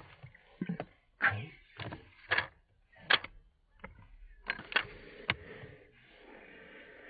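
A series of irregular sharp clicks and knocks, about a dozen, the loudest a little over a second and about three seconds in.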